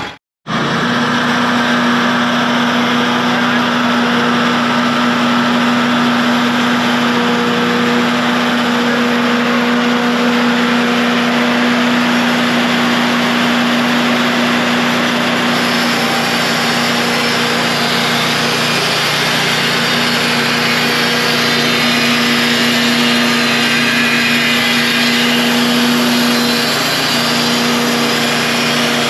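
Wood-Mizer band sawmill running under load, its engine humming steadily while the band blade cuts lengthwise through a tamarack log with a continuous hiss.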